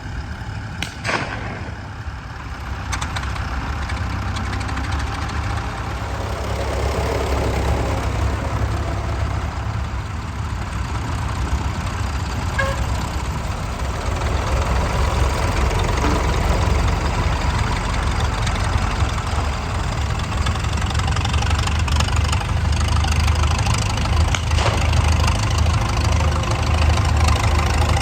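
Vintage tractor engine running steadily, growing gradually louder, with a sharp knock about a second in.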